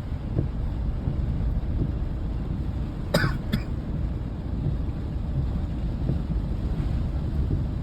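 A steady low rumble of outdoor background noise, with a short two-part cough-like sound about three seconds in.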